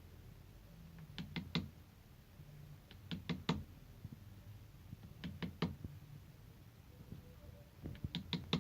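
Mallet blows tamping powder composition into a firework tube: sharp knocks in quick groups of three or four, a new group about every two seconds.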